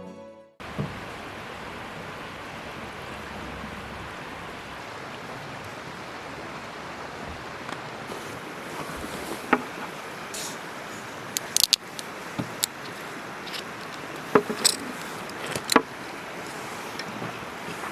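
Steady outdoor rushing noise, with a few sharp clicks and knocks scattered through the second half.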